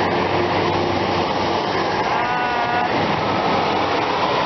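Class 150 Sprinter diesel multiple unit pulling away and passing close by, its underfloor diesel engines running with steady wheel and rail noise. About two seconds in, a brief wavering high-pitched squeal sounds for about half a second.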